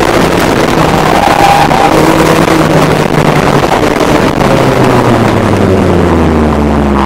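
Ariel Nomad's four-cylinder engine heard on board while driving, held at fairly steady revs for the first few seconds, then the revs falling away in the last couple of seconds as the throttle is lifted.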